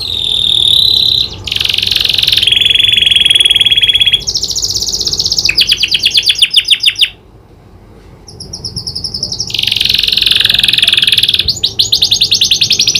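Domestic canary singing loud, fast trills and rolls of rapidly repeated high notes, with a brief pause about seven seconds in. Its song is filled with learned prenjak (prinia) call phrases.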